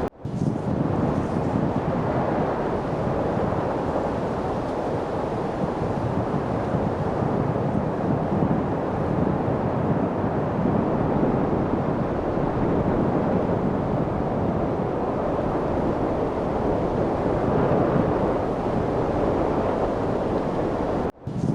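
Steady wind noise, an even rushing hiss with no gusts or pitch. It cuts out for an instant just after the start and again near the end.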